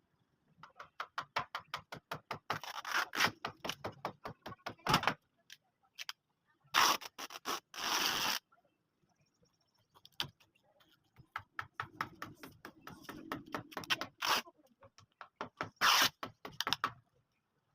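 Quick runs of clicks and scrapes, broken by a few longer bursts of harsh scraping about seven seconds in and again near the end.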